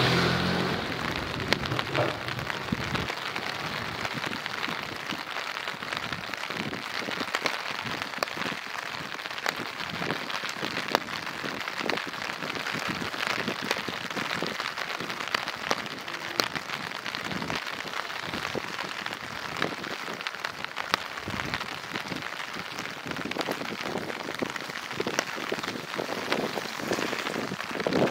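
Steady rain falling, with many separate sharp drop ticks close by.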